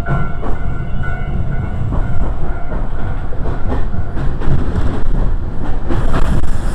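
Iyotetsu electric train running along the track: a steady low rumble with irregular clicks of the wheels over rail joints, and a faint whine in the first few seconds.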